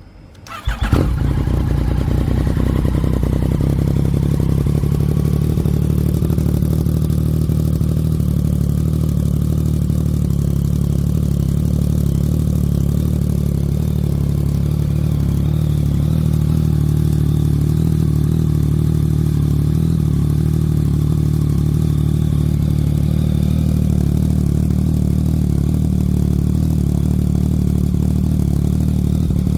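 Yamaha XSR900 three-cylinder engine, on a full exhaust with the dB killer removed, fires up about half a second in on a cold start and settles straight into a loud, steady idle.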